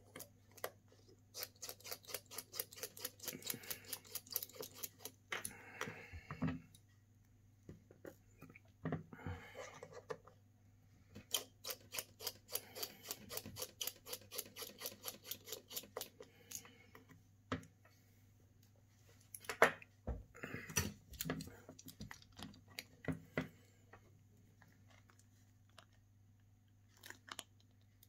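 Small repair tools clicking, ticking and scraping against an iPhone XR as it is being opened, in quick runs of sharp ticks with short pauses between.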